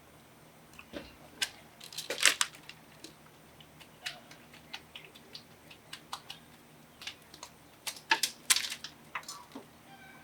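Irregular light clicks and taps, with two louder clusters of knocks about two seconds in and again about eight seconds in.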